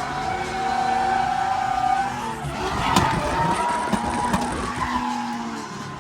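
Drift car engine revving hard with its tyres skidding through a drift.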